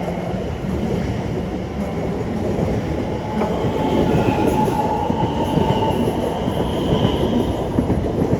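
Class 720 electric multiple unit pulling out of the station past the platform, its wheels rumbling steadily on the rails. A steady high whine joins in about three and a half seconds in and fades out near the end.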